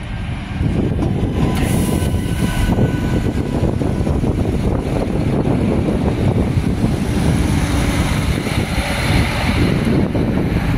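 Adelaide Metro 3000-class diesel railcar running along the platform at close range: steady, loud engine and rail noise, with a few brief higher tones about two seconds in.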